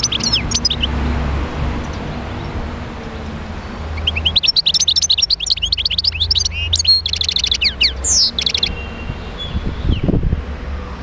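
European goldfinch singing a fast twittering song, briefly at the start and again in a longer burst from about four seconds in to nearly nine, over a steady low hum, with a low thump near the end.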